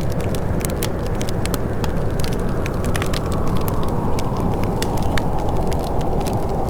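Wood fire crackling in a fireplace: many sharp irregular snaps and pops over a steady low rumble.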